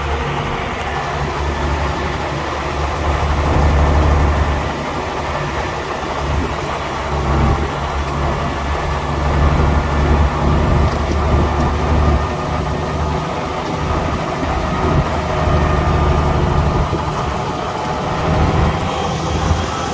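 Heavy diesel engine of earth-moving machinery running under changing load, its deep note swelling and easing several times.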